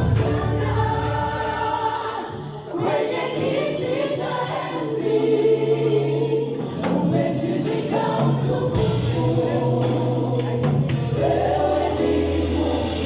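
Live gospel worship music: a choir singing over bass, with drums and cymbal hits.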